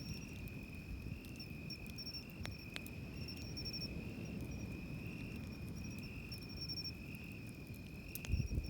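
Night insects singing: one steady high trill and a second insect chirping in quick runs every second or so, over a low wash of surf. A few sharp crackles from a campfire.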